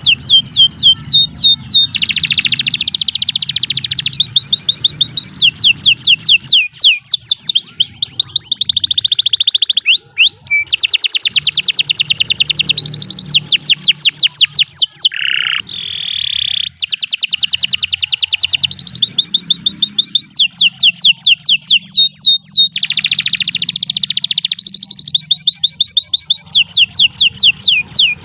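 Domestic canary singing a long, unbroken song of fast repeated trills and rolls, switching from one trill to the next every second or two. A lower, buzzier phrase comes about fifteen seconds in.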